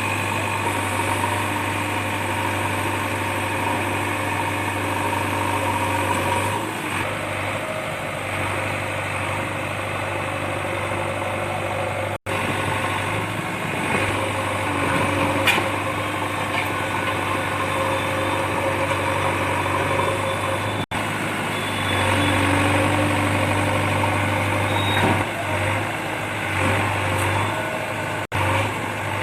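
Heavy diesel engine noise from a JCB 3DX backhoe loader and a Tata LPT 3118 truck, running steadily near idle with small rises and falls in level. The sound drops out suddenly three times for a split second.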